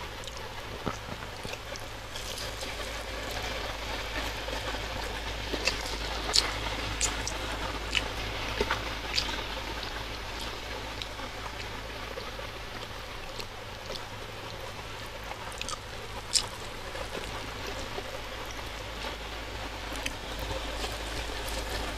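Close-miked chewing of soft, sticky red velvet martabak manis (thick sweet pancake): wet, squishy mouth sounds with scattered small clicks, over a steady low hum.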